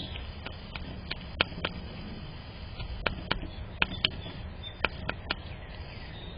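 About a dozen sharp, irregular taps and clicks over a steady low background hum, typical of small birds pecking and hopping on a perch.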